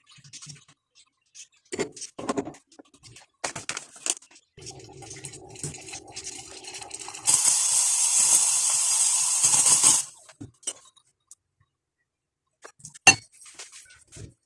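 Cups and utensils clinking, then a low hum from the small espresso machine. About seven seconds in, a loud steady hiss of steam starts, as from the steam wand, and cuts off sharply about three seconds later. A few more clinks follow near the end.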